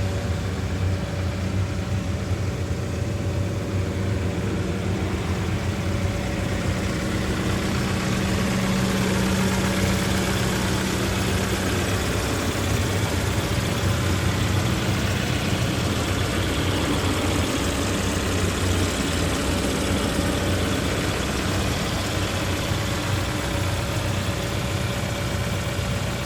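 Diesel engine of a Case 580N loader backhoe running steadily, a little louder for a few seconds about eight seconds in.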